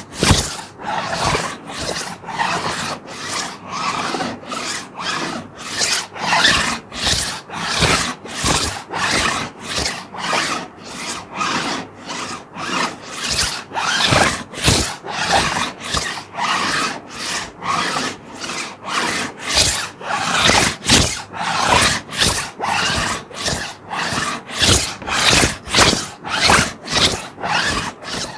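A plastic sheet being scratched in short, even strokes, about two a second.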